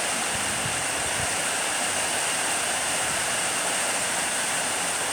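Storm wind and heavy rain: a steady rushing hiss, with a few low rumbles of wind buffeting the microphone in the first second or so.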